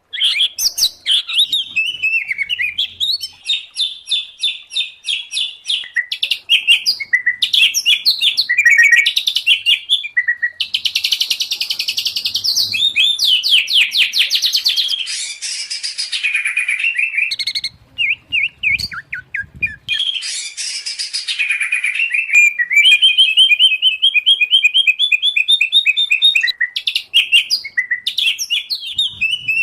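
Songbirds singing continuously: a combined recording of white-rumped shama, oriental magpie-robin and greater green leafbird song, used as master audio to teach caged birds. Loud, varied whistled phrases and fast trills follow one another with barely a break, with a short lull about two-thirds through.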